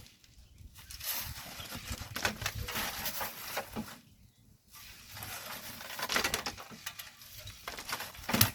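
Volcanic sand and gravel being dug and shifted with hand tools: irregular scraping and pattering of grit and small stones, with a brief lull about four seconds in.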